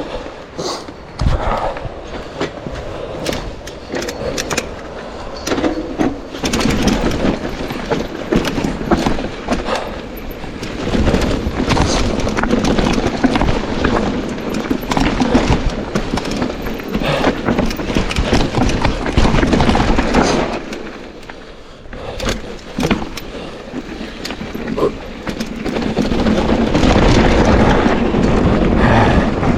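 Mountain bike running fast down a rough downhill trail: tyres rumbling over dirt and rocks, with constant knocks and rattles from the bike, easing off briefly about two-thirds of the way through.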